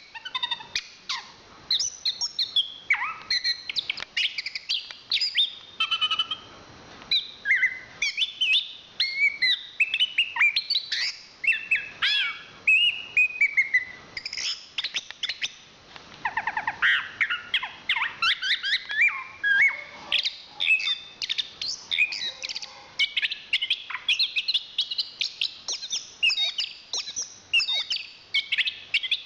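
Chestnut-capped thrush (anis kembang) singing a continuous, varied song of quick whistled and chattering phrases, with a fast trill about halfway through.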